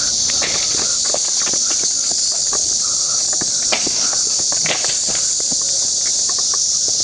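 A chorus of cicadas calling: a loud, steady, high-pitched buzz that does not let up, with faint scattered clicks underneath.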